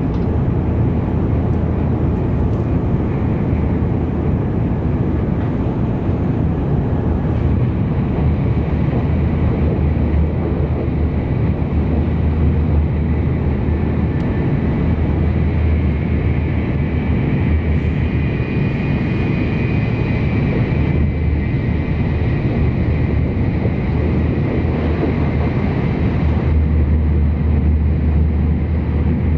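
Cabin running noise of an N700 series Shinkansen at about 285 km/h: a steady heavy rumble of wheels and air with a faint high whine. Near the end the top end dulls and the rumble deepens as another Shinkansen train passes close alongside.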